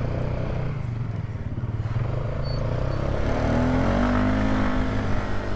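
Polaris ATV engine running as the quad rides along, rising in pitch and getting louder about three seconds in as it accelerates.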